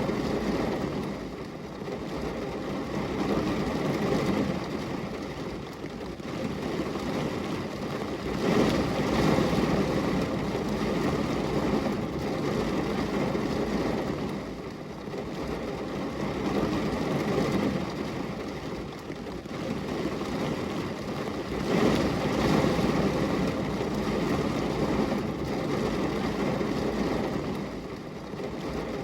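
Steady rain on a glass window: a dense rushing noise that swells and eases every six or seven seconds.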